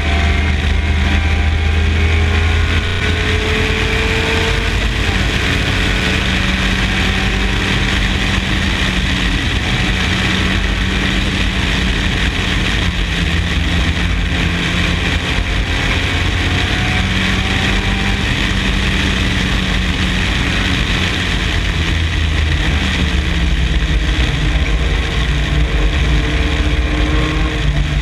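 MG Midget race car's four-cylinder engine running, its pitch rising and falling gradually with throttle and gear changes.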